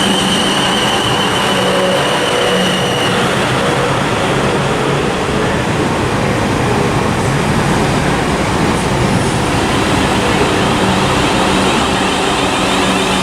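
South Western Railway Class 444 Desiro electric multiple unit running into the platform: a steady rush of wheel and running noise with a low hum. A high steady tone sounds over it and stops about three seconds in.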